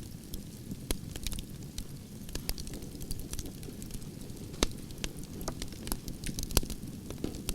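Campfire of burning logs crackling, with sharp irregular pops over a low steady rumble of flame; the loudest pops come about halfway through and again about two-thirds of the way in.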